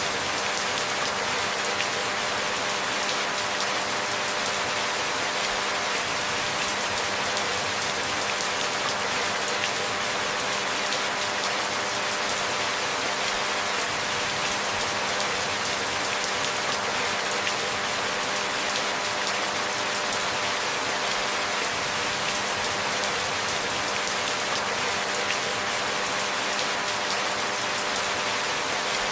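Steady rainfall, an even hiss of drops with no pauses or single loud events, with a faint steady hum beneath it.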